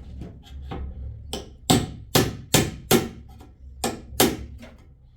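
Hammer blows, about seven sharp strikes: a quick run of five, then a short pause and two more.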